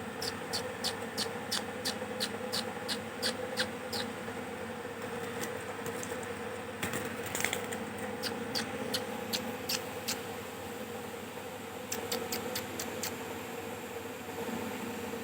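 Young ring-necked parakeets making short, sharp, high chirps in quick runs of about three a second, in three bursts, over a steady low hum.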